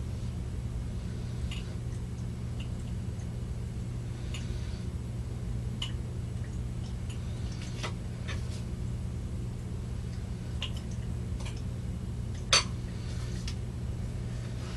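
Irregular light taps, clinks and scrapes of a spoon against a small plastic planter and its soil while seeds are pushed in, with one sharper click near the end, over a steady low hum.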